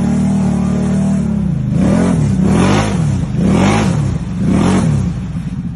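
Off-road vehicle engine running at steady high revs, then revved up and down four times, about once a second.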